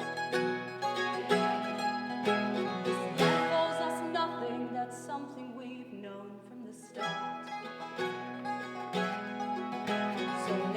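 Live acoustic guitar music, an instrumental passage of strummed and picked chords. It thins out around the middle and the full strumming comes back about seven seconds in.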